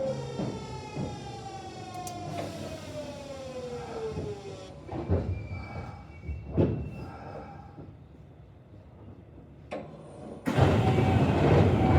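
Kintetsu 1026 series VVVF inverter whine, several tones falling in pitch together as the train slows, cutting off about halfway through; a few knocks follow, then a sudden loud rushing noise near the end.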